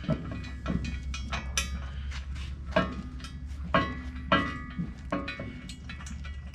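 Bolts, nuts and hand tools clinking and knocking against steel parts while a winch is bolted to its mounting plate, with three louder ringing metal knocks near the middle, over a steady low hum.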